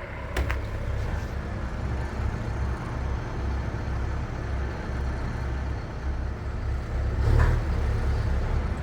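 Delivery truck's diesel engine running with a low, steady rumble, with a short sharp knock about half a second in and a brief louder noise near the end.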